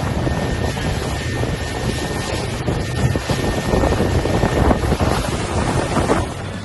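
Wind buffeting the microphone: a dense, rumbling rush of noise that swells and eases.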